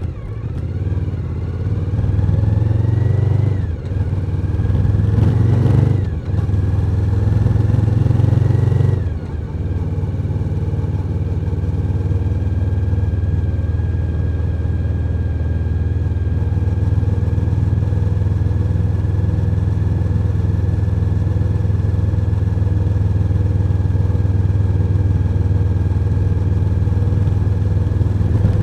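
Suzuki SV1000's 90-degree V-twin engine accelerating through the gears: the pitch climbs and drops at upshifts about four, six and nine seconds in, then the engine holds a steady cruise.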